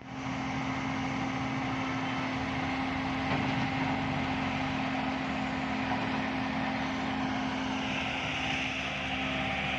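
Heavy diesel engine of a dump truck or excavator running steadily at a constant speed.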